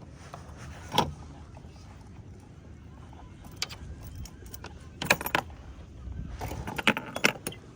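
Sharp metallic clinks and knocks of boat gear being handled, in clusters about a second in, around five seconds in and near the end, over a low steady rumble.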